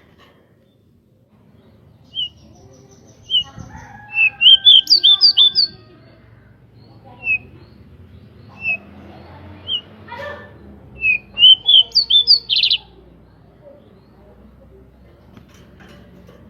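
Pied bushchat (decu) singing: single sharp chirps a second or more apart, and two quick runs of rapid chirps, the second ending in a short buzzy note.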